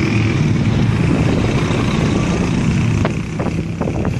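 Steady rumble of a vehicle on the move, engine and road noise together, with a few short knocks about three seconds in.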